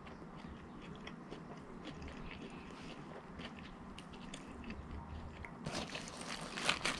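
Close-miked chewing of a mouthful of chicken nuggets: faint, wet mouth clicks and soft crunching. A louder patch of crackling comes about six seconds in.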